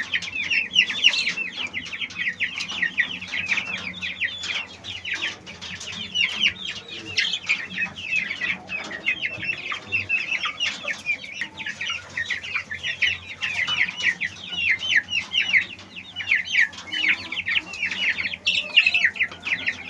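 A flock of Polish chickens clucking and chattering, many short high calls overlapping several times a second without a break.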